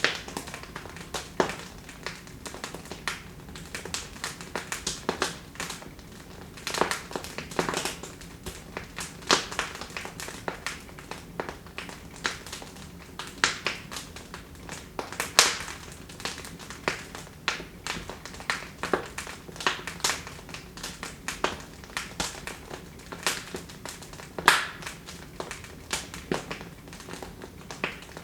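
Wood fire in a fireplace crackling: irregular sharp pops and snaps over a soft steady hiss, with a few louder pops.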